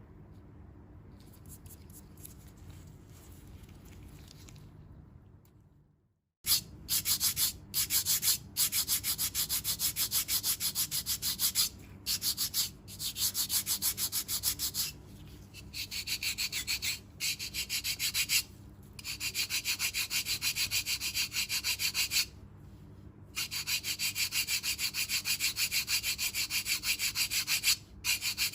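A foot file rasping over tough dead skin on the sole of a foot, in fast, even back-and-forth strokes. It starts about six seconds in and comes in runs of several seconds with short pauses between them.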